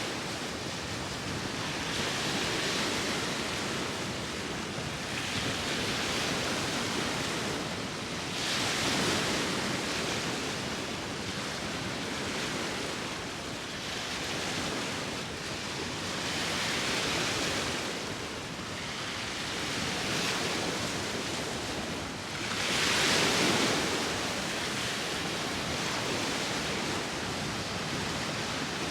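Sea waves washing ashore in a steady surging hiss that swells and ebbs every few seconds, the largest wave breaking about 23 seconds in, with some wind mixed in.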